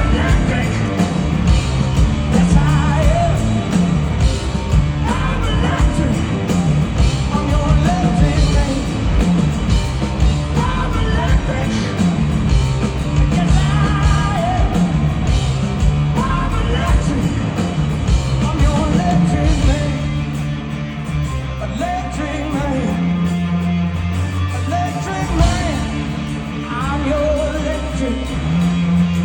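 Rock band playing live and loud: drums and heavy bass under a bending lead melody line. The band eases down a little about two-thirds of the way through, then builds again near the end.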